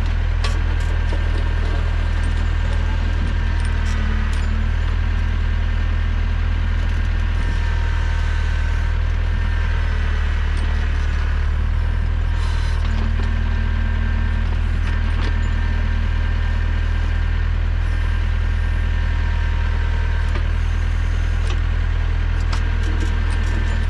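Small tractor engine running steadily under load while it drives the backhoe, with a higher whine that rises and falls and occasional clicks and knocks.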